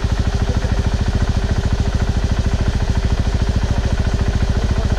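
Off-road motorcycle engine idling steadily close by, with an even, rapid beat of firing pulses.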